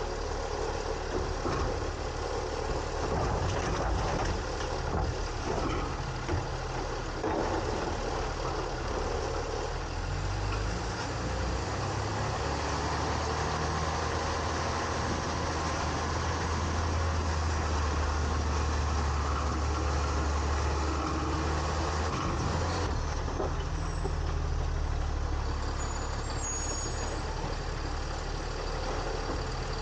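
A 2022 Autocar ACX garbage truck with a New Way Sidewinder side-loading body running, heard from inside the hopper. A few clunks and rattles come in the first several seconds. Then the engine note steps up to a strong steady hum for about ten seconds and drops back.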